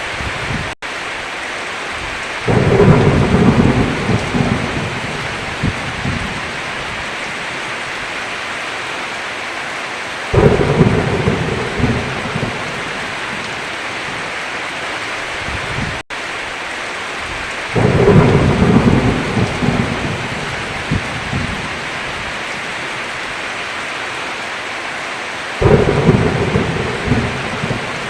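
Heavy rain falling in a steady hiss, with rolling thunder rumbling four times, each roll lasting a couple of seconds. The rain cuts out for an instant twice.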